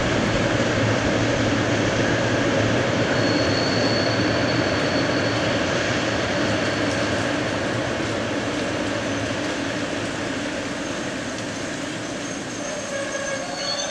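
Freight train of tank wagons running over the rails, a steady rolling rumble that slowly fades as the train draws away, with a brief thin high squeal a few seconds in.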